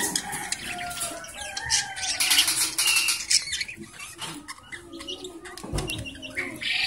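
Birds calling, with scattered clicks and rustling.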